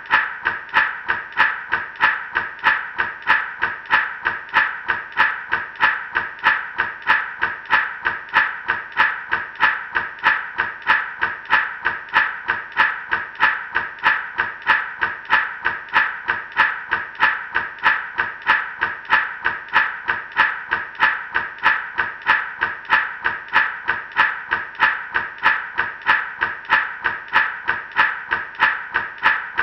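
Gourd rattle shaken in a steady, even rhythm, about two shakes a second, each shake a sharp rattle of seeds or pebbles inside the dried gourd.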